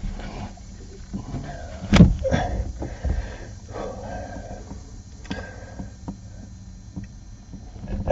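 Scattered knocks and clunks of metal engine parts and tools being handled, with one louder knock about two seconds in, over a faint steady hum.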